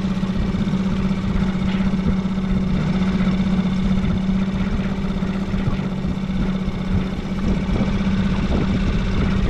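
Small boat's outboard motor running steadily, with an even low hum.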